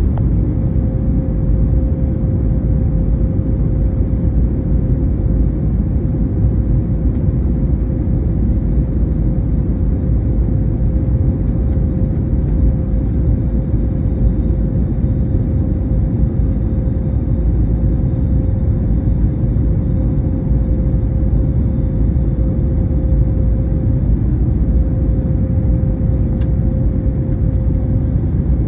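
Airliner cabin noise inside an Airbus A321neo during its approach to land: a steady low rumble of engines and airflow with a constant mid-pitched hum running through it.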